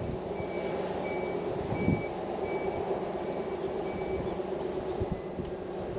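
A vehicle's reversing beeper sounding short, evenly spaced high beeps, about one every 0.7 s, until about four seconds in, over its engine running steadily.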